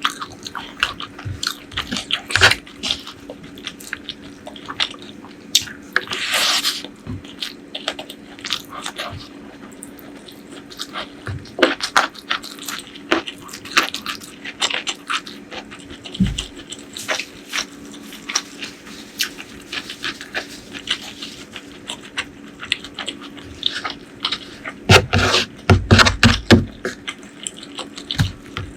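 Close-miked eating sounds of a curry-and-rice meal: wet chewing and mouth smacking in quick, irregular clicks, with a longer noisy burst about six seconds in and a cluster of louder, deeper sounds near the end.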